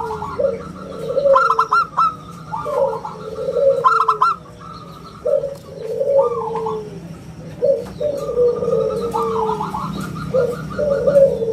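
Zebra dove (perkutut) cooing repeatedly in rolling phrases: quick stuttering notes, then longer notes that slide down in pitch.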